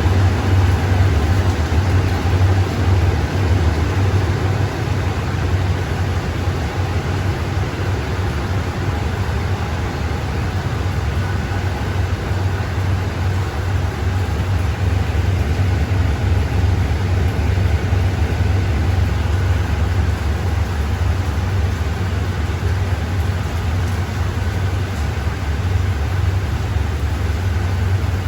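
A train's diesel engine running steadily at constant speed: a deep, unchanging hum with a noisy drone above it.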